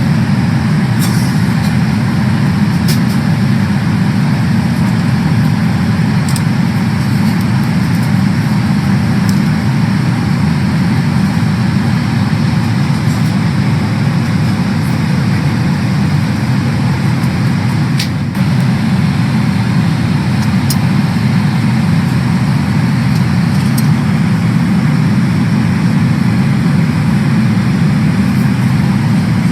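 Steady cabin noise inside a Boeing 777-300ER airliner: a constant rumble and rush of engines and airflow, with a few faint clicks.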